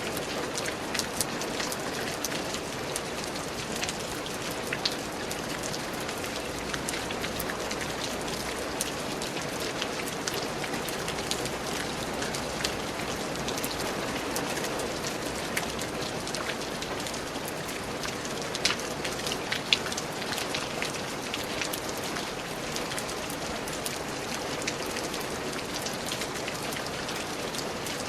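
Steady rain falling, an even hiss with many scattered sharper drop impacts, a few louder drips standing out now and then.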